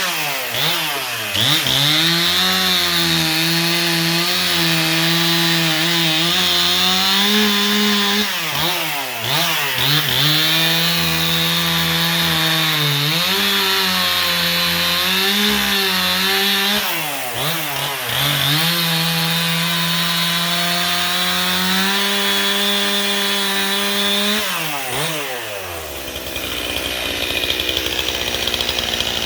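Two-stroke chainsaw running at high revs while cutting firewood logs, its engine note dipping and picking back up about five times. Near the end the steady engine note drops away into a rougher, noisier sound.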